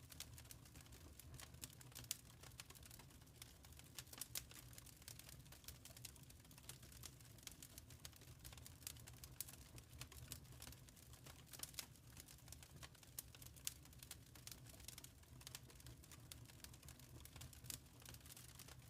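Wood fire crackling quietly: many small irregular pops and snaps, a few louder than the rest, over a low steady rumble.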